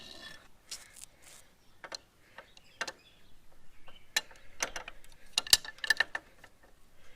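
Metal hand tools clicking and clinking as they are handled and fitted: scattered light clicks, then a quicker run of sharper, ringing metal clinks in the second half.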